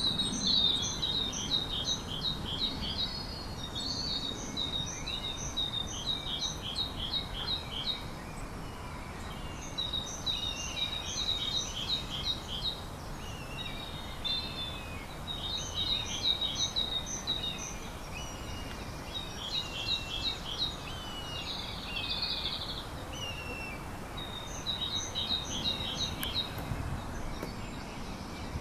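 A songbird singing short phrases of quick, high, repeated notes, a new phrase every few seconds, over a steady low rumble of outdoor background noise.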